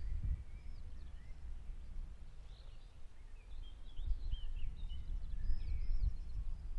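Small birds chirping and calling here and there, most busily in the second half, over a low, uneven rumble.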